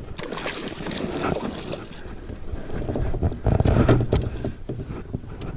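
Water splashing and knocks against a kayak as a hooked largemouth bass is fought and brought aboard, with scattered sharp clicks and the loudest knocking about three and a half seconds in.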